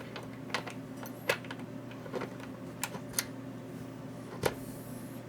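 Irregular light clicks and taps of small tools and connector parts being handled on a workbench, about seven in all, the sharpest about a second in and again near the end, over a steady low hum.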